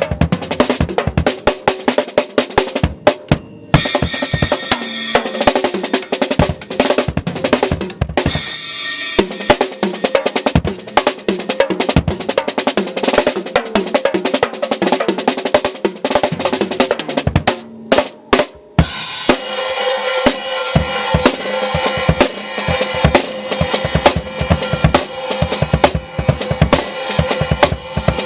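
Acoustic drum kit played fast and hard: rapid fills across snare, toms and bass drum with rimshots and cymbal crashes. There are brief breaks about three seconds in and again at about eighteen seconds, each followed by ringing cymbals under the strokes.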